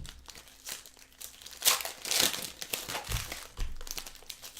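Plastic or foil packaging crinkling and rustling as it is handled, in irregular bursts, the loudest crackles about two seconds in, with a couple of soft bumps after.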